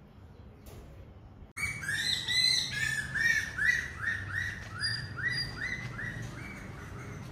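Birds chirping: a quick series of repeated arching notes, about three a second, with higher chirps over them. It starts abruptly about a second and a half in and fades a little toward the end.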